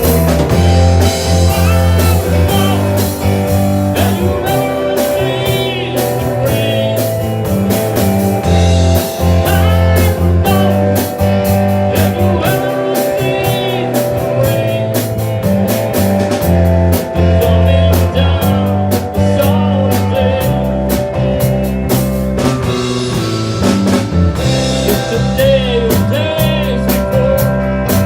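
Rock band playing a blues-rock song with electric guitar, bass and drum kit, and a melody line wavering over it.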